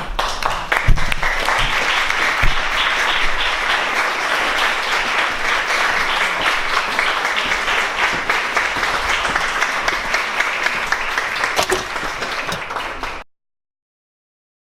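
Theatre audience applauding steadily, a dense patter of many hands clapping, which cuts off abruptly about 13 seconds in.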